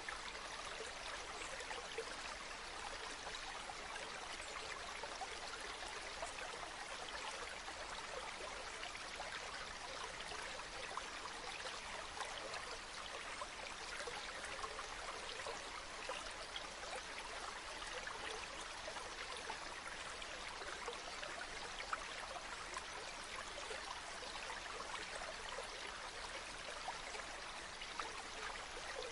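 Running water of a stream flowing steadily, an even rush with many small splashes through it.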